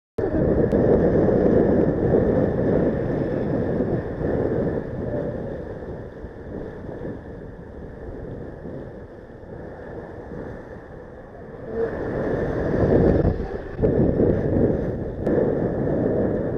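Wind rushing over the microphone of a moving vehicle, with road and engine noise underneath. It eases off through the middle, then rises again about three-quarters of the way through.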